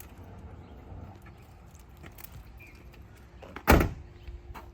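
A single loud thump about three and a half seconds in, over faint rustling and handling noise.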